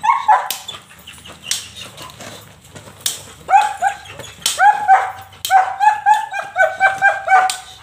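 A police K-9 dog barking repeatedly: a few separate barks at first, then a quick run of barks, about two to three a second, from about halfway through.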